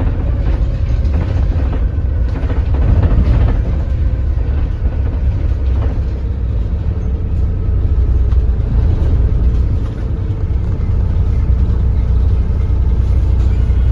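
Doosan DL08K inline-six diesel of a Daewoo BS106 city bus running at low revs as the bus drives slowly, a steady low rumble.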